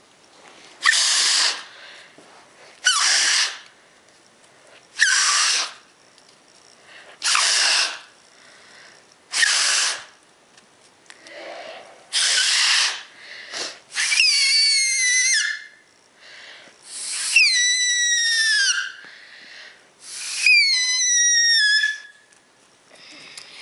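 A homemade folded-paper reed whistle (a squawker cut from printer paper) blown through between two fingers. It gives about six short breathy, hissing blows, then three longer, loud squeals, each falling in pitch.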